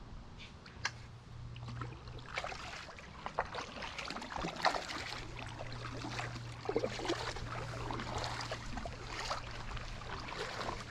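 Paddle strokes in the water from someone paddling seated on an inflatable paddle board: irregular splashes and dripping as the blades dip and lift, over a steady low hum.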